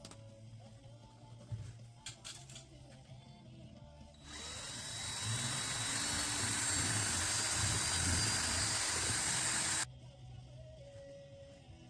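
A power tool running with a loud, even hiss that builds up over a second or so, holds for about five seconds and cuts off suddenly.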